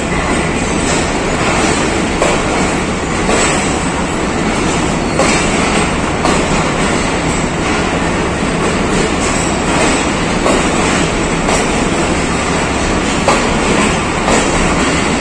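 Pakistan Railways passenger coaches rolling past, a steady loud rumble and rattle of the moving rake with the wheels clicking now and then over rail joints.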